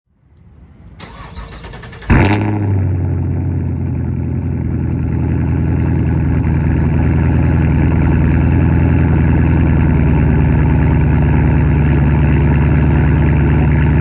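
A 2016 Camaro SS's 6.2-litre V8, with its mufflers deleted, is started. The starter cranks for about two seconds, the engine fires with a sharp, loud flare, then settles into a steady, deep idle.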